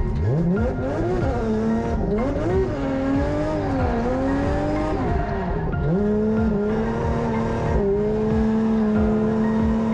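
Nissan Skyline drift car's engine heard from inside the cabin, revs swinging up and down through a drift for about six seconds, then held steady and high, with some tyre squeal. The car won't come alive properly, a sign that something is badly wrong with the engine.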